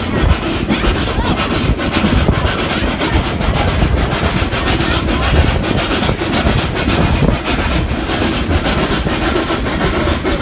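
Steam-hauled passenger train running steadily on a curve: the rumble and clatter of the coaches' wheels on the rails, heard from aboard one of the cars.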